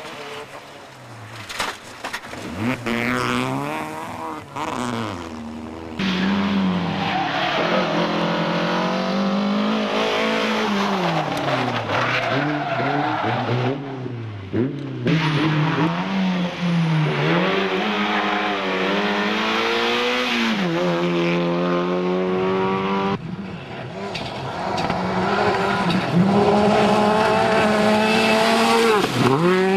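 Rally car engines revving hard, their pitch climbing and dropping through gear changes, with tyre noise on the stage. The sound cuts between several different cars.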